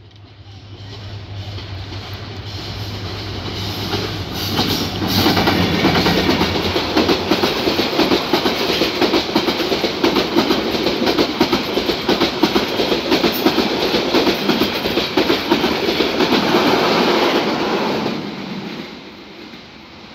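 Bangladesh Railway intercity passenger train passing close by: a low steady locomotive hum as it approaches, then for about fourteen seconds a loud rush of the coaches with rapid clatter of wheels on the rails, fading away near the end.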